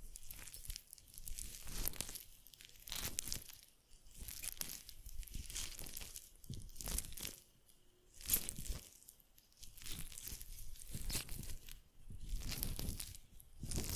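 Close-miked ASMR trigger sounds: scratchy crinkling and rustling against the microphone, coming in irregular swells with short pauses between, the sharpest one about eight seconds in.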